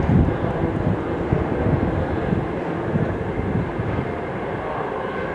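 BART train rumbling along the elevated track as it pulls away, the low rumble slowly fading.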